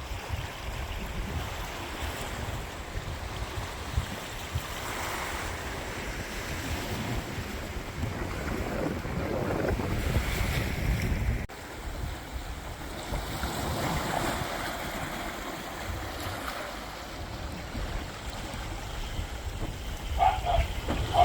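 Mediterranean sea waves washing onto the shore in slow swells, with wind rumbling on the microphone. The sound drops out sharply for a moment about eleven and a half seconds in.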